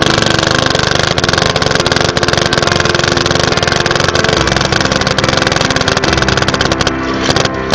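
Paintball marker firing a long rapid string of shots, far too fast to count one by one, thinning to a few separate shots near the end, over background piano music.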